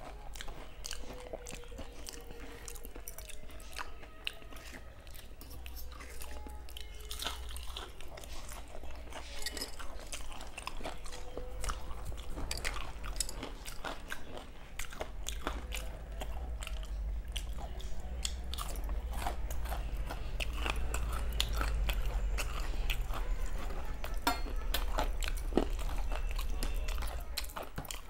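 Close-miked eating by hand: chewing and biting with many short crunchy snaps and clicks, as fingers mix rice on a steel plate and carry mouthfuls to the mouth.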